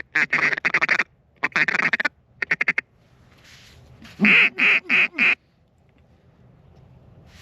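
Duck quacking in several loud bursts of rapid repeated quacks, with a quick chatter about two and a half seconds in; the last burst ends a little over five seconds in.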